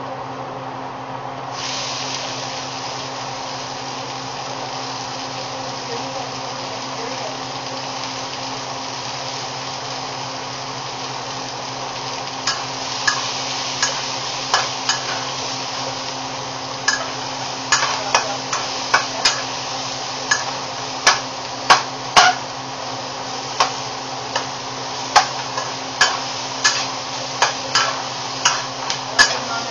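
Onions and garlic sizzling in hot oil in a wok; the sizzle jumps louder and brighter about a second and a half in as more food hits the pan. From about twelve seconds in, a spatula knocks and scrapes against the wok, irregularly once or twice a second, as the onions are stir-fried.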